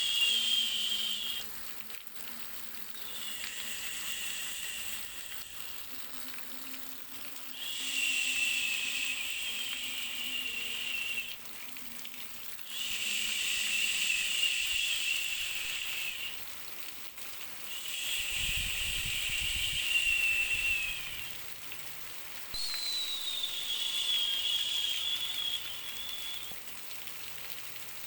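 A high-pitched buzzing tone, with a faint hiss, comes in phrases of three to four seconds with short gaps, six times. Each phrase dips slightly in pitch at its end.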